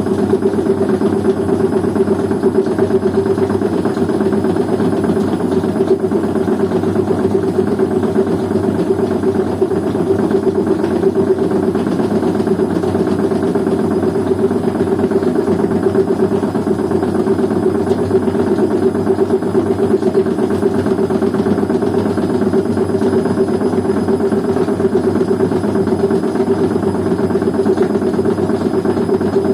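Washing machine running with a steady mechanical hum and vibration that does not let up.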